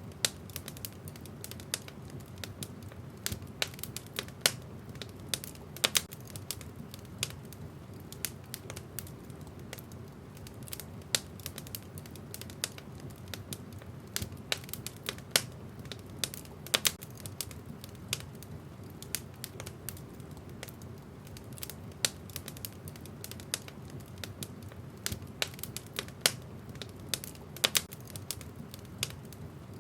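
Wood fire in a fireplace crackling: irregular sharp pops and snaps of burning logs over a low steady rumble.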